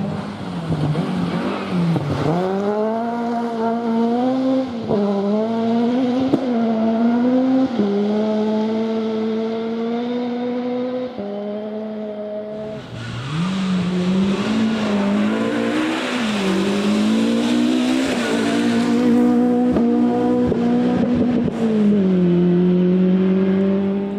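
Rally cars at full throttle on a gravel forest stage, the engine note climbing and dropping again and again as the drivers shift and lift. About halfway through a car comes past close with a loud rushing noise over its engine.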